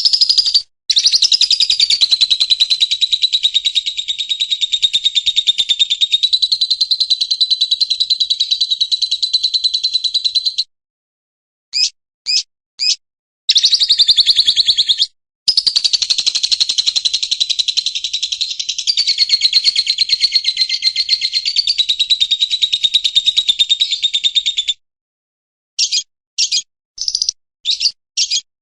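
Murai hutan (white-rumped shama) song: two long, very rapid trills of about ten seconds each, evenly pulsing around one high pitch, with short single chirps before, between and after them.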